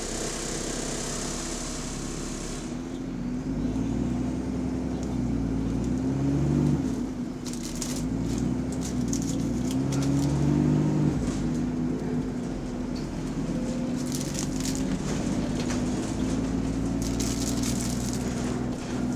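Bus engine with an exhaust leak running under way, its pitch climbing and then dropping several times as it pulls away and changes gear, with light rattling over it in the later part.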